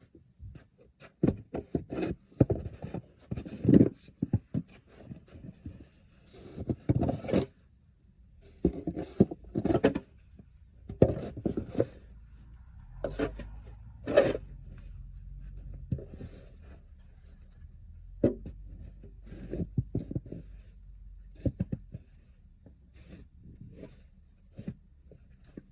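Irregular knocks and scrapes of objects being handled, with a low steady hum in the middle stretch.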